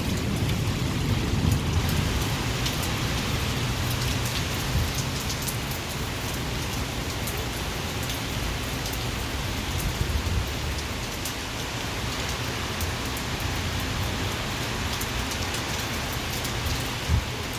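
Rain falling steadily, with a dense patter of individual drops and a low rumble underneath.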